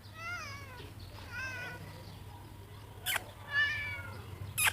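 Domestic cat meowing three times, each call short and rising then falling in pitch. Two sharp clicks come about three seconds in and near the end.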